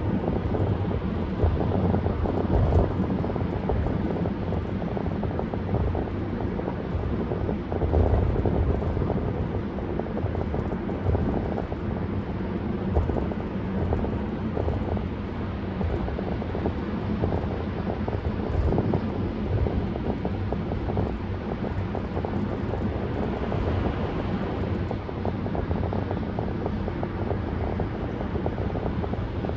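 Steady low rumble of a car driving at highway speed: tyre and road noise mixed with engine hum, with small bumps in level now and then.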